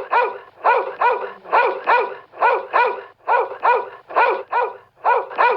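Dog barking over and over in quick pairs of barks, about one pair a second.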